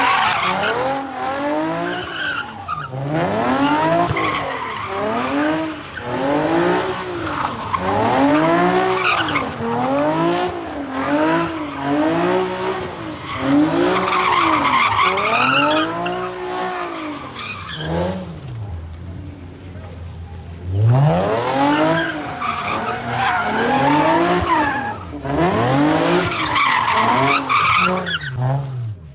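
A car doing donuts or a burnout: the engine revs rise and fall about once a second while the tyres squeal and skid. Past the middle the engine settles briefly to a steady low note, then revs up again.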